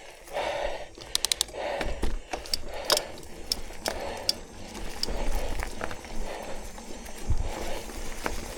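Mountain bike clicking and rattling over a dirt trail, with sharp ticks from the drivetrain and frame, while the rider breathes hard in a steady rhythm.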